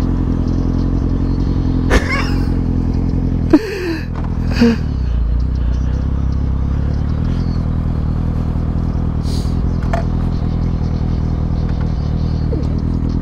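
A 2020 Kawasaki Ninja ZX6R's inline-four engine idling steadily, heard from the rider's seat. There are a couple of sharp knocks about two and three and a half seconds in.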